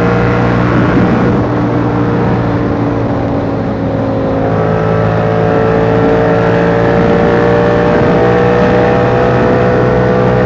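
Yamaha R7's 689 cc parallel-twin engine through a KO Lightning aftermarket exhaust, running steadily under way, its pitch slowly climbing from about halfway as the bike gathers speed.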